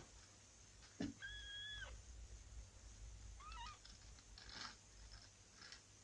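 Newborn kitten mewing faintly: one high, flat squeak lasting under a second, then a short wavering squeak a couple of seconds later. A soft knock comes just before the first mew.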